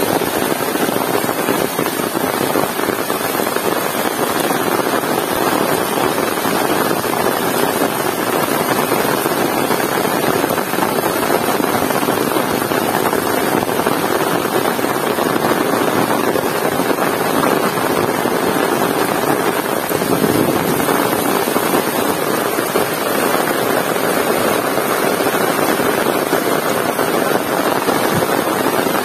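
Heavy rain pouring down in a steady, loud wash without letup.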